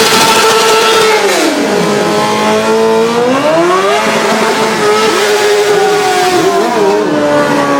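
Motorcycle engine revving hard: held at high revs, its pitch drops sharply about a second in, holds low, climbs back up around three seconds in, then slowly eases down with a few small blips of the throttle.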